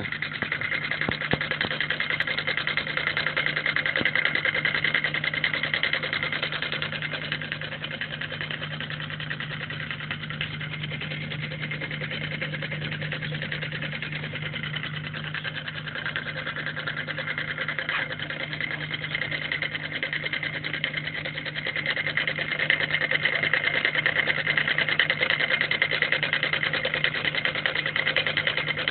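Homemade solenoid engine running steadily: a fast, even clatter as the electromagnet drives the plunger, over a constant low hum. It gets somewhat louder in the last several seconds.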